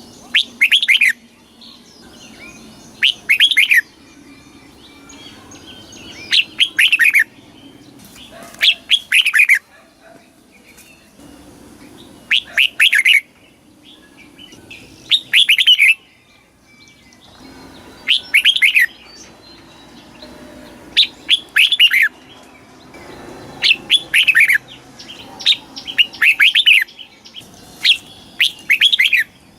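Red-whiskered bulbul singing short, quick whistled phrases, about eleven of them, each under a second long and coming every two to three seconds.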